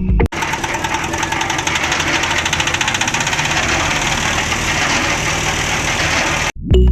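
Small motor-driven machine running steadily with a fast, even clatter. It cuts in just after the start and cuts off abruptly near the end.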